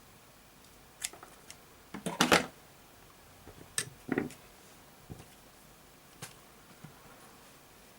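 Light clicks and small knocks of tools and a circuit board being handled while a diode is desoldered. There is a short scraping noise about two seconds in, which is the loudest, and another just after four seconds.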